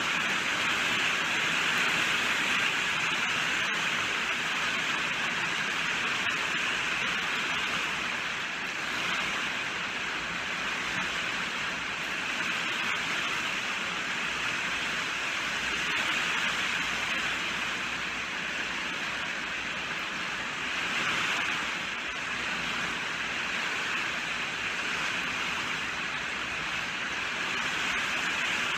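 Steady heavy rainfall, a dense even hiss of falling rain.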